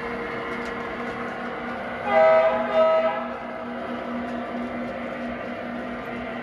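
Lionel model train's electronic diesel sound system: a steady engine drone, with two horn blasts about two seconds in.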